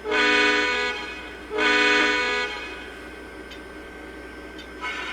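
Model Dash-9 diesel locomotive's onboard sound system blowing its multi-tone air horn: two blasts of about a second each, the second starting about a second and a half in, the two-blast signal for moving off.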